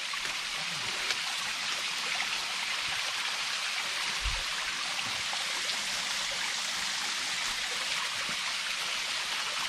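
Small creek waterfall splashing and rushing steadily.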